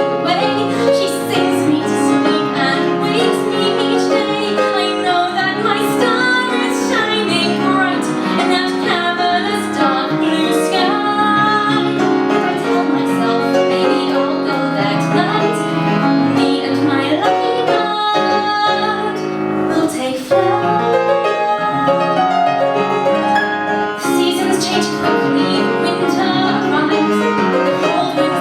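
A woman singing a musical theatre ballad over piano accompaniment, with a brief break in the music about two-thirds of the way through.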